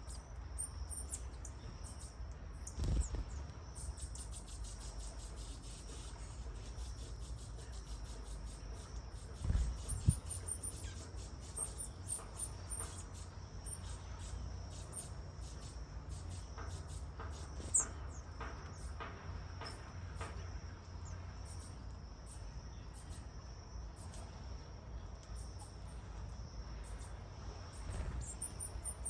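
A steady, high-pitched insect chorus trills on without a break over a low rumble. A few dull thumps come about three and ten seconds in, and a sharp tick comes just before eighteen seconds.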